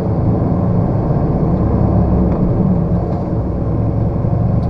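Lorry's diesel engine running steadily, heard from inside the cab while driving, a low drone with road noise.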